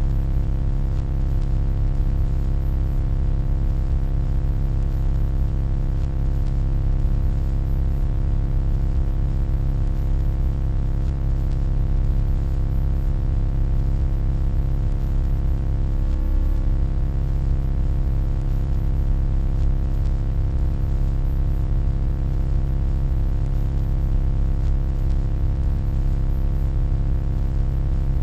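Steady, low electronic hum made of many layered tones, unchanging apart from a brief slight wavering about halfway through.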